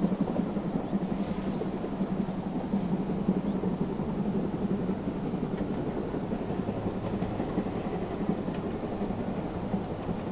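A train running past with a steady low rumble, easing slightly near the end.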